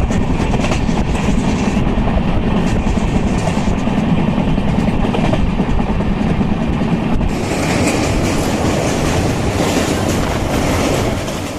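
Passenger train running along the track: a steady loud rumble with the clatter of wheels over rail joints, turning hissier about halfway through.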